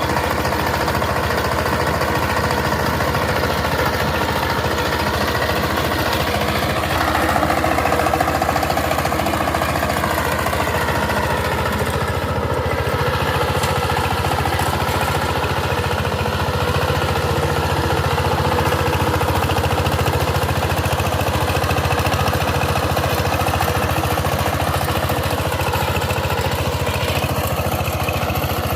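Power tiller diesel engine running steadily near idle with a fast, even firing beat; its speed rises briefly about a quarter of the way through and sags slightly a couple of times later.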